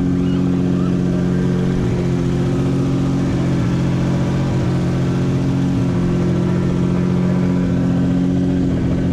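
Nissan Skyline engine idling steadily just after a cold start.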